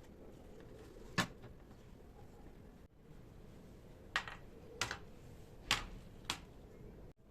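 Five short, sharp clicks and light knocks of kitchen items being handled: one about a second in, then four more close together near the middle and end.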